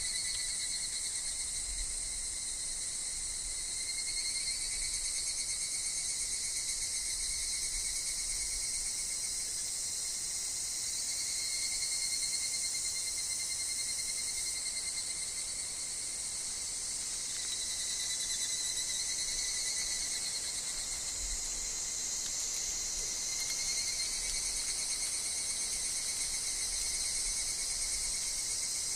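Chorus of singing insects: a continuous high shrill with thinner, steady trills lower down that waver slightly in pitch.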